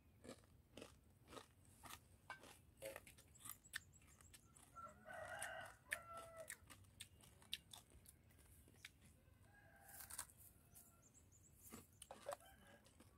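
Quiet crisp crunches of someone chewing crispy sugar-glazed dried rice (cơm khô ngào đường), a scattered run of short cracks. A rooster crows faintly about five seconds in.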